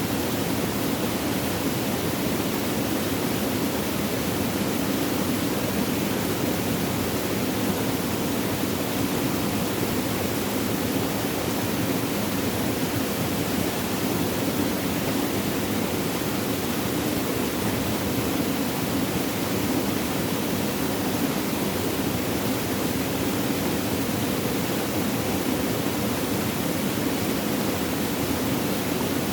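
Flowing water running steadily and evenly, a continuous rushing with no breaks.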